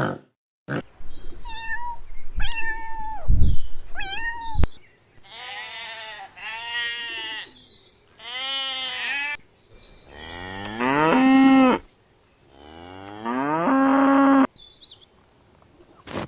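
A run of farm animal calls cut one after another: a few short calls first, then several longer arching calls, then two long calls that rise in pitch and hold near the end, the loudest part.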